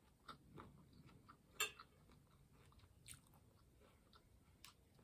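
A person chewing food close to the microphone: faint, scattered mouth clicks, with one louder click about a second and a half in.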